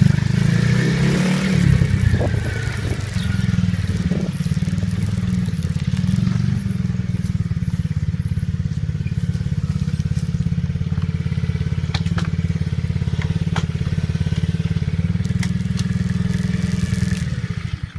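Dirt bike engine running steadily under way, a fast even pulsing that holds throughout and cuts off abruptly near the end.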